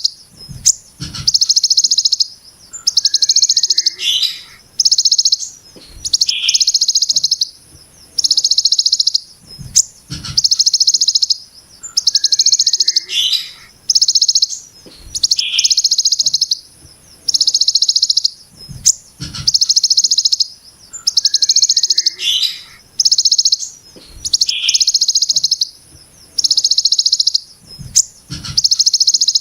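Ciblek gunung giving its harsh, dense 'brem' call: buzzy high bursts of about a second each, repeated in quick succession with short gaps, now and then mixed with shorter lower chirps. A steady faint high hiss runs underneath, with a few low thumps.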